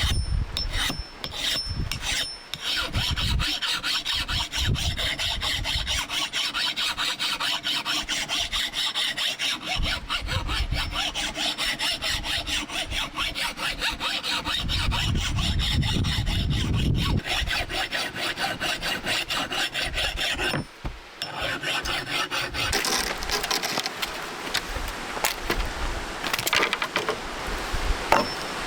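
Hand saw cutting through wood in a long run of quick back-and-forth strokes, pausing briefly about three-quarters of the way through, typical of cutting firewood for a campfire.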